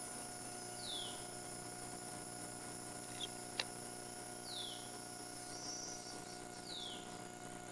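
A bird's short falling call, three times, over a steady electrical hum and a high steady whine that stops about two-thirds of the way through; a single sharp click near the middle.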